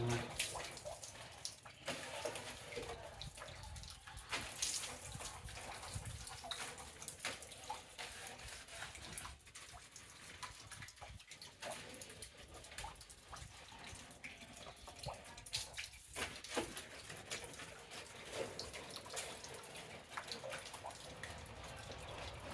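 Soapy water dripping and splashing in small irregular bursts as a cloth soaked in shampoo water is applied over a motorcycle's body.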